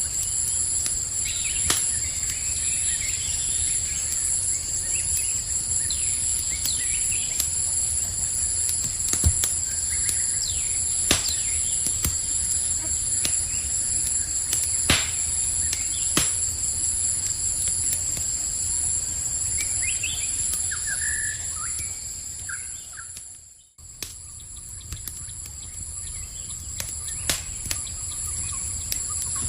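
Campfire crackling with scattered sharp pops over a low rumble, under a steady high-pitched chorus of night insects and a few short bird chirps. About 23 seconds in, everything fades out and then fades back in.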